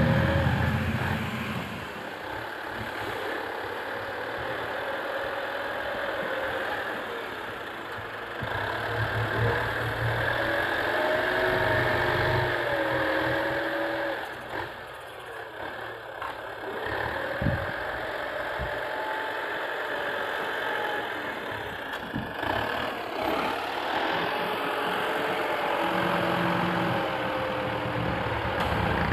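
Heavy diesel engine of a dump truck or earthmoving machine running at low speed, its note rising and easing, with a wavering whine that comes and goes. One sharp knock about two-thirds of the way through.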